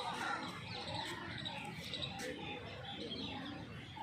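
Birds chirping, many short calls overlapping over a steady background hum.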